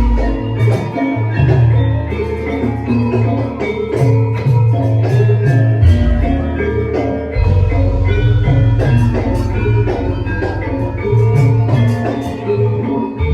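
Javanese gamelan ensemble playing: bronze metallophones and gongs ringing in interlocking notes over a steady pulse of low drum strokes.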